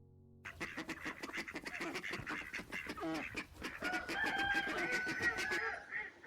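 Several chickens calling over one another in a dense run of short calls and a few held notes. The calls start about half a second in and cut off abruptly near the end.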